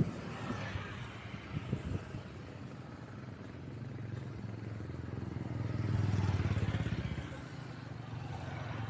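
Motor vehicle engine passing close by with a low steady hum, a few sharp clicks in the first two seconds, then swelling to its loudest about six seconds in and fading.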